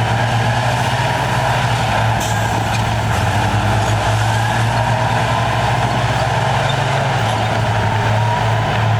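Heavy earthmoving machine's diesel engine running steadily, a low drone with a faint whine that rises in pitch a couple of times.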